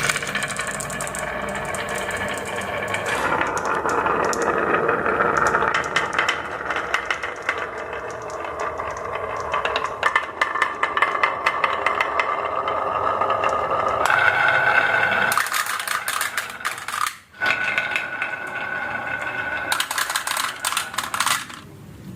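Marbles rolling and clattering down a marble run track, a continuous rolling rumble with many rapid clicks, broken by a brief gap about seventeen seconds in.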